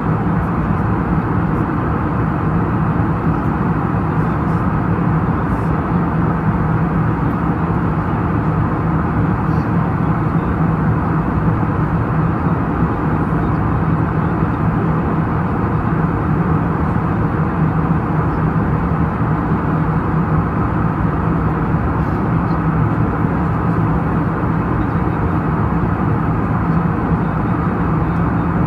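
Steady cabin noise of a jet airliner in flight, engines and airflow, with a constant low hum running under it.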